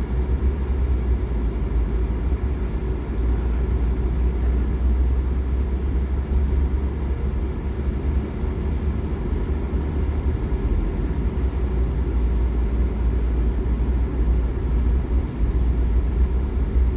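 Steady low rumble of a car driving along the road, with engine and tyre noise and no change in pace.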